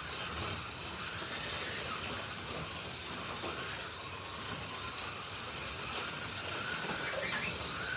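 Slot.it slot cars lapping the track: their small electric motors whine, rising and falling in pitch as the cars speed up and slow down, over a steady rumble of gears and wheels on the track.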